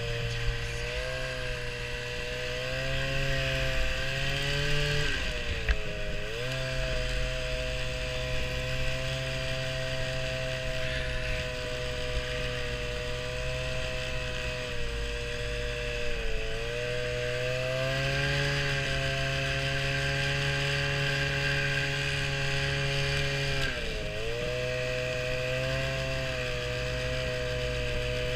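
Small motor vehicle's engine running steadily while riding. The engine note dips briefly and picks up again three times.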